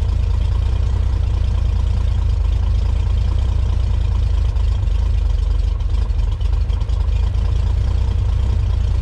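1963 Chevrolet Corvair's air-cooled flat-six engine idling steadily on freshly rebuilt carburetors, shortly after a cold start.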